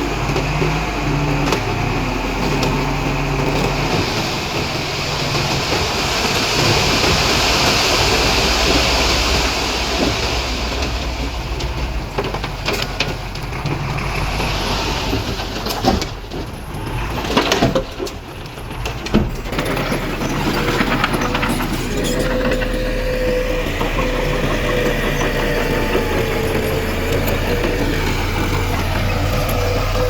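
Heavy diesel earthmoving machinery running under load. A few sharp knocks come a little past the middle, and a steady whine sets in during the last third.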